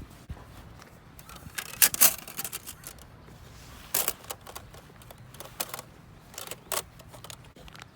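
Small metal camping gear being handled: a handful of sharp clicks and clinks, the loudest two about two seconds in.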